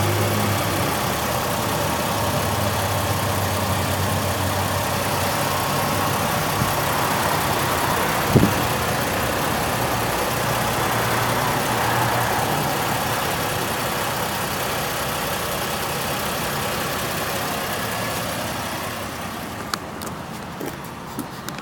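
2008 Chevy Uplander's 3.5-litre V6 idling steadily, with one sharp click about eight seconds in. The engine grows fainter toward the end, where a few light clicks are heard.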